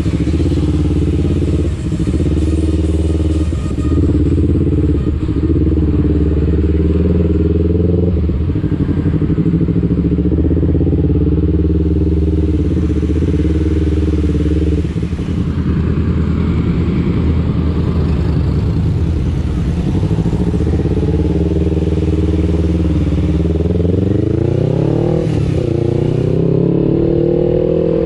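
Kawasaki Ninja 250 FI parallel-twin engine running through an R9 H2 aftermarket exhaust while riding at a fairly steady engine speed. Near the end the revs climb, dip briefly and climb again.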